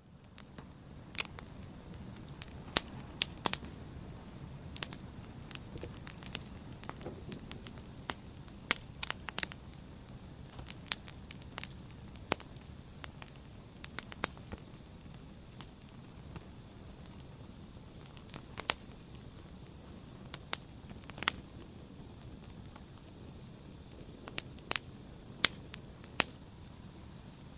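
Log fire burning in a fireplace: a steady low rush of flames with frequent sharp, irregular crackles and pops.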